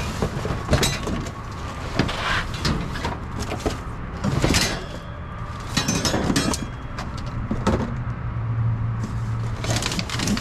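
Irregular rustling and knocking, with a low steady rumble underneath.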